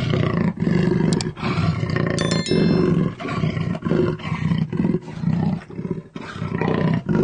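An animal giving a series of loud, low roaring calls, each about half a second to a second long with short gaps between them. A brief high chime sounds about two seconds in.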